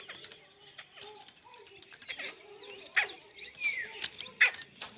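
Partridges calling: scattered short, sharp notes and a few chirps that fall in pitch, the loudest calls coming in the second half.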